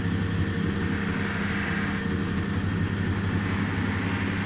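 Electric polishing machine running steadily at speed with a low hum, buffing the flatted lacquer on a wooden car glove box door with wax.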